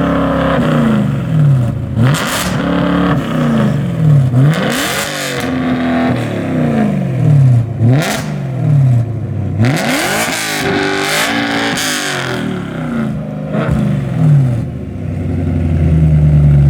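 Straight-piped E90 BMW M3's 4.0-litre V8 being revved again and again, the pitch climbing quickly and then falling back each time, settling to a steadier low note near the end.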